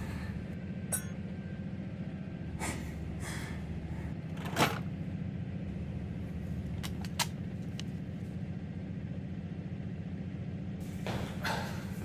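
Steady low rumble of a moving train carriage, pulsing rapidly and evenly, with a few short clicks and swishes over it.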